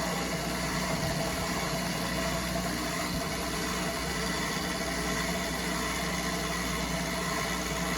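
Brastemp Clean 5 kg washing machine (BWR22A) running with a steady, unchanging motor hum.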